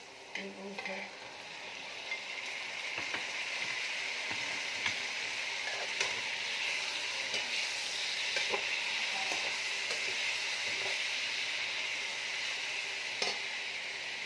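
Chicken pieces sizzling as they fry in oil with onion and garlic in a wok, the sizzle rising about two seconds in as the chicken goes into the pan. A spatula stirs and scrapes the pan, with now and then a click against it.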